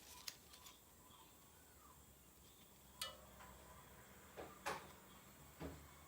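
A few light clicks and knocks of small hard objects being handled, one about three seconds in with a brief metallic ring.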